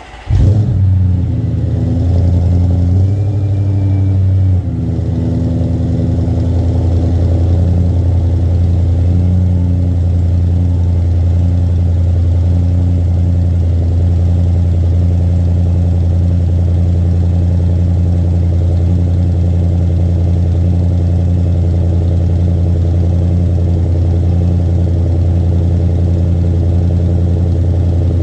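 Audi S6 with a Milltek aftermarket exhaust starting up with a loud flare, holding a fast idle for about four seconds, then dropping to a steady idle that runs on evenly.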